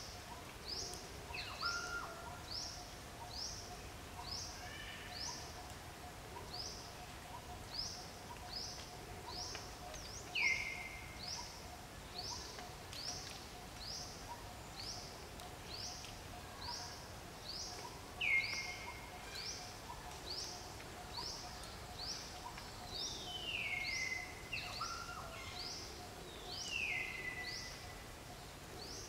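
Birds calling in forest: one repeats a short high note about twice a second, while louder down-slurred calls come now and then, the loudest about ten and eighteen seconds in. A faint steady tone hums underneath.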